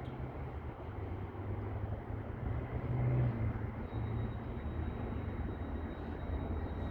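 Class 158 diesel multiple unit's engines running with a steady low rumble; a faint high steady whine comes in about four seconds in.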